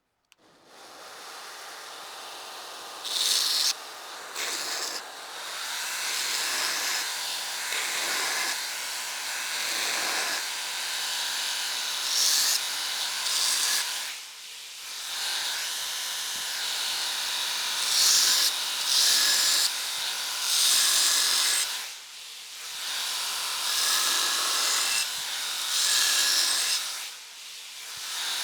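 A 2x72 belt grinder running while a forged steel railroad spike knife is ground against the belt. The hissing grind swells in repeated passes of several seconds and eases off briefly between them.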